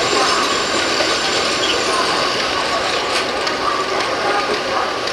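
Passenger carriages rolling slowly along the track while shunting: a steady rumble and hiss of wheels on rail, with a few faint clicks about three seconds in.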